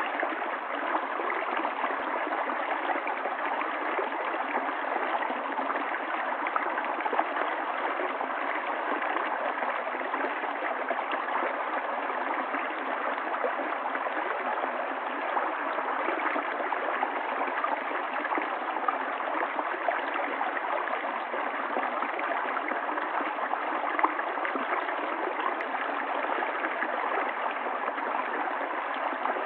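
Flowing water: a steady, even rush that does not change.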